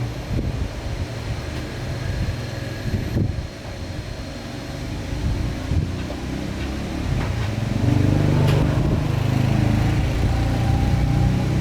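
Low engine rumble of a motor vehicle running, growing louder about eight seconds in.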